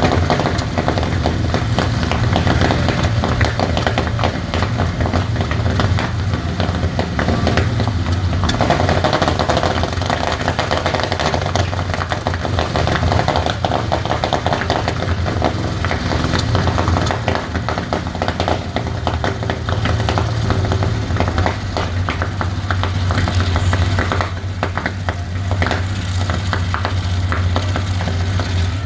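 Rolls-Royce Merlin V12 aero engine running steadily, a deep, rapid stream of firing pulses.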